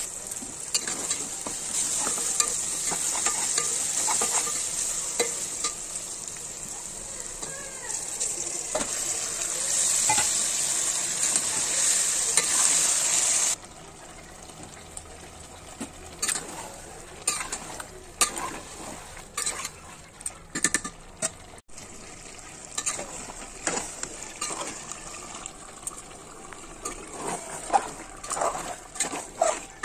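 Sliced onions and tomato frying in oil in an aluminium pot, a steady sizzle with a metal spatula stirring and scraping through it. About halfway through, the sizzle cuts off suddenly. What follows is quieter: the spatula stirring chicken pieces in a thick gravy, with scattered clicks and scrapes against the pot.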